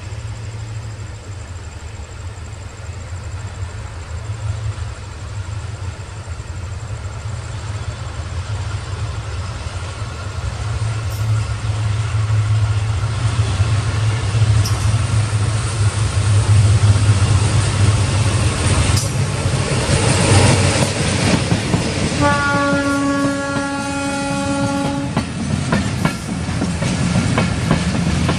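Approaching diesel locomotive, its low engine rumble growing louder, then one horn blast of about three seconds some 22 seconds in. Near the end its carriages rattle past with a clickety-clack of wheels on rail joints.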